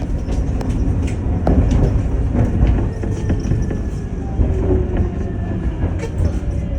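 Kaohsiung Light Rail tram running on its rails: a steady low rumble with scattered clicks from the wheels and track, and faint whining tones above it.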